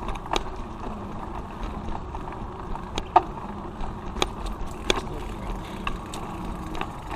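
A bicycle being ridden: a steady rushing noise from the moving bike, with a few sharp clicks and rattles scattered through it.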